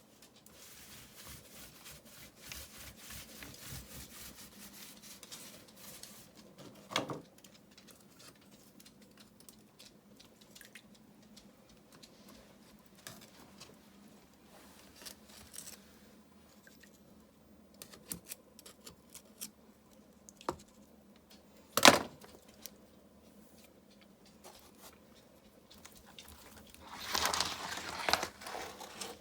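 Grout being worked over river rock: rapid rubbing and scraping strokes, a knock about seven seconds in, a sharp, loud knock partway through, and a burst of scraping near the end.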